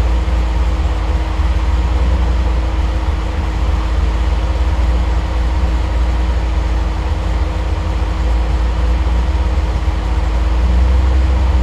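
Triumph TR8's Rover V8 idling steadily when warm, on Megasquirt 3 Pro sequential fuel injection. It is running a little lean, at about 14 to 15 to 1, while the auto-tune adjusts the idle fuelling.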